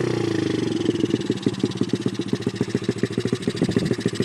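2003 Honda four-stroke dirt bike engine running. Its revs fall away early on and it settles into a steady idle.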